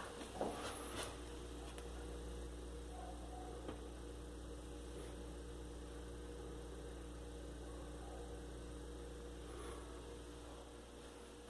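Brastemp BRE 49B refrigerator running, a steady hum of several tones, with a couple of light knocks near the start.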